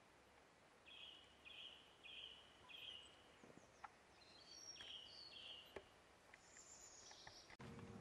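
Faint birdsong outdoors: a bird repeats one short high note four times, then gives a few higher notes and quick falling calls, over a faint background hiss.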